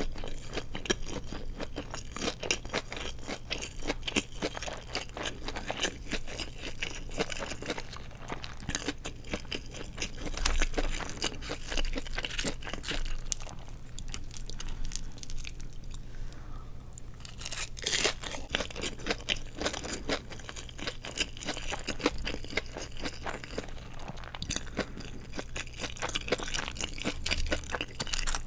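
A person biting and chewing crisp deep-fried seaweed rolls (glass noodles wrapped in nori, then fried), with close crunching throughout and a short lull about halfway through.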